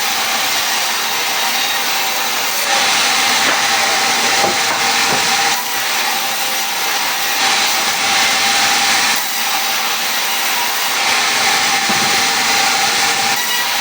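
A power tool running steadily on wood, a dense whirring noise with a faint steady whine, dipping slightly every few seconds as it works the timber.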